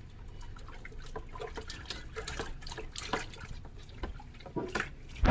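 Water dripping and splashing in irregular drops, with a louder knock or splash near the end.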